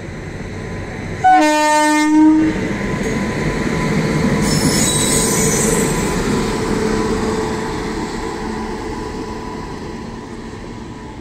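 Indian Railways passenger train passing close by. Its horn gives one loud blast about a second long, a little over a second in. The train then rumbles past, with a high wheel squeal partway through, and the rumble slowly fades toward the end.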